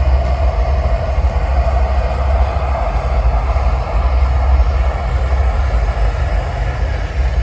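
Propane roofing torch burning with a steady, loud low rumble and hiss, heating torch-down roofing for a patch.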